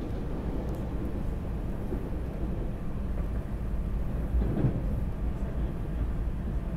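Steady low rumble of a moving electric commuter train, heard from inside the passenger car, with a brief louder swell about four and a half seconds in.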